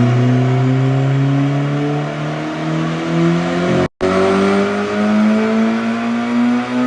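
Car engine pulling under acceleration, its pitch rising slowly and steadily, heard as two pulls with a sudden cut between them about four seconds in.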